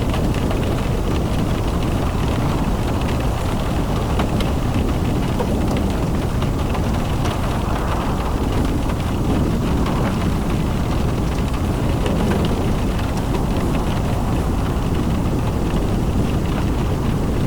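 Steady rumble of a car driving in rain, with wind buffeting the microphone and fine ticks of raindrops striking.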